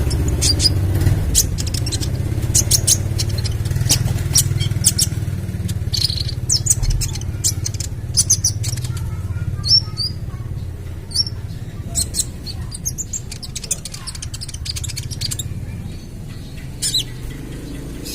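Young kolibri ninja sunbird calling in quick, sharp high-pitched chirps and short trills, with irregular gaps between them. A steady low rumble runs underneath.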